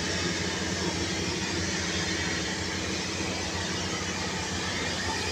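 Steady machine drone with a low hum and an even hiss over it, unchanging throughout.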